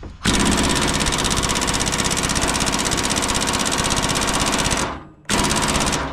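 Impact wrench hammering on a large seized nut: a long burst of rapid, even blows lasting about four and a half seconds, then a shorter burst near the end. The nut does not break loose.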